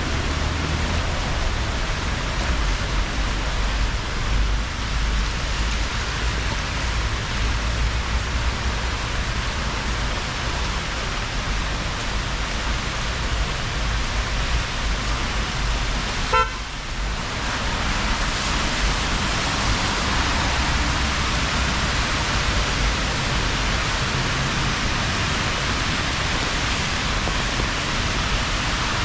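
Steady rain hiss with a low rumble underneath, interrupted by a brief click about sixteen seconds in, after which the hiss is a little brighter.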